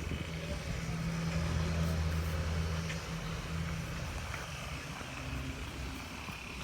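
A low engine hum that swells about two seconds in, then fades away.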